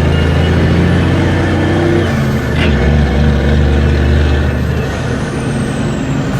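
Steady vehicle engine and road noise, a low hum that weakens about five seconds in, with one short click about two and a half seconds in.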